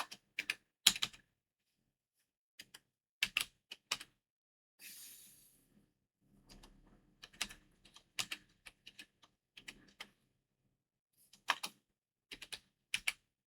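Computer keyboard keystrokes in short, irregular bursts with pauses between, as commands are typed into a terminal.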